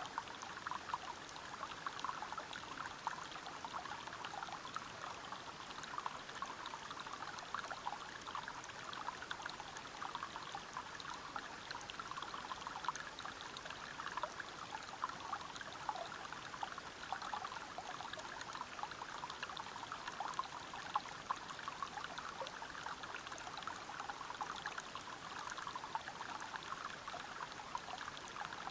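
Water of a forest stream or waterfall flowing and splashing over rocks: a steady, even rush made of many small splashes and trickles, with no change.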